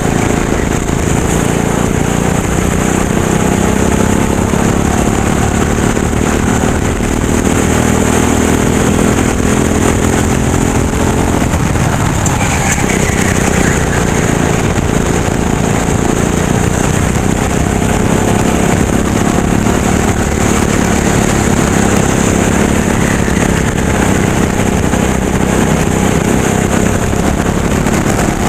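Racing kart engine running hard and steadily, its pitch wavering up and down a little, with a short dip about halfway through.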